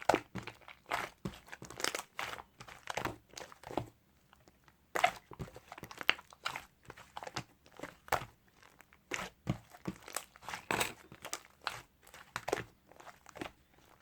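Hands squeezing and pressing slime covered with a layer of clay, giving irregular crunchy crackles and pops, with a short pause about four seconds in.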